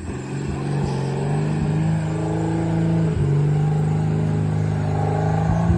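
Supercharged Jeep Wrangler engine running at steady, fairly high revs under load, its pitch creeping slowly upward with a brief drop about three seconds in.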